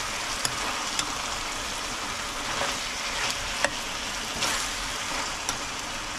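Chicken adobo sizzling in a frying pan as it is stirred: a steady hiss of sauce cooking, with a few sharp clicks of the stirring utensil against the pan.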